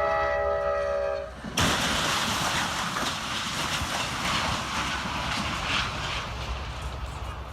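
Amtrak train's locomotive horn sounding a steady chord, breaking off about a second in. Then the train strikes a stalled car hauler with a sudden loud crash, followed by a long, dense rushing clatter of the passing train and wreckage.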